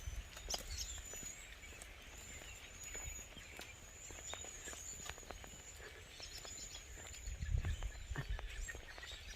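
Wild birds chirping and calling in woodland, many short high calls and whistles repeating throughout, with footsteps crunching on the ground and a low rumble about seven and a half seconds in.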